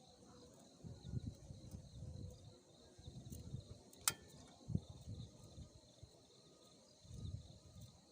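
Insects chirring steadily in mountain forest. Under it are irregular low rustling and handling bumps, a sharp click about four seconds in and a short thump just after.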